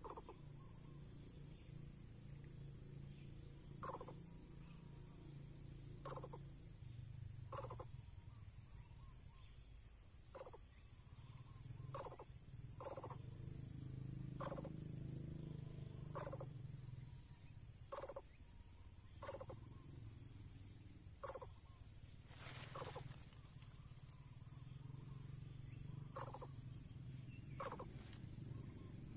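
Short calls repeated every second or two, faint over a steady high insect drone.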